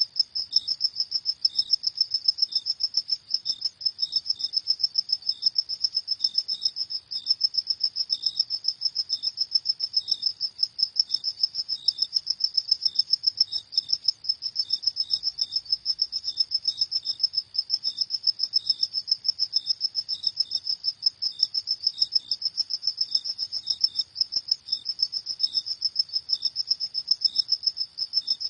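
Crickets chirping: a steady, high-pitched train of rapid chirps, with a second, slightly lower chirp repeating less often beneath it.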